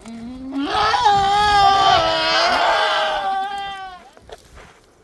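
A sheep giving one long, loud, wavering bleat that rises at the start and fades out about four seconds in.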